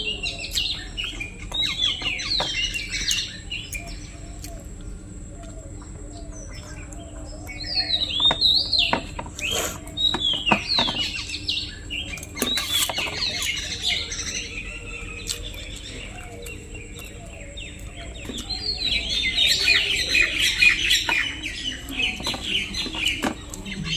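Small birds chirping: quick, falling high chirps in busy bursts, thickest at the start, through the middle and again near the end, with quieter stretches between.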